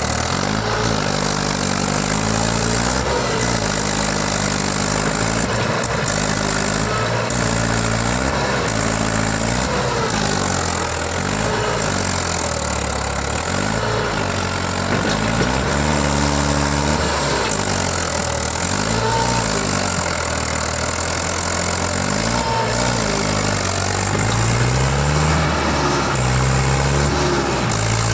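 Mahindra tractor's diesel engine revving up and down again and again, its pitch rising and falling every couple of seconds, as the tractor strains to pull itself out of the mud.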